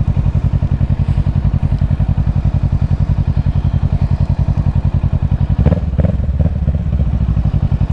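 Kawasaki Ninja 650 parallel-twin engine running at low revs with an even, rapid train of firing pulses. A little under six seconds in there is a short knock, and the engine note changes after it.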